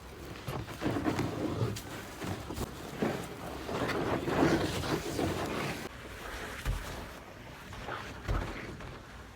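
Floodwater sloshing and splashing, with wind buffeting the microphone, swelling in the middle. Two short low thumps near the end.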